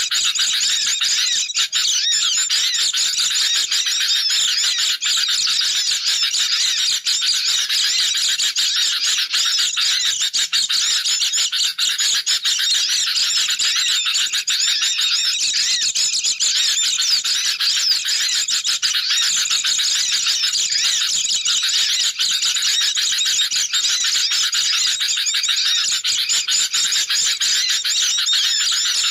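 Dense, unbroken chattering of many small birds: sooty-headed bulbuls and white-eyes calling over one another, a bird-lure recording.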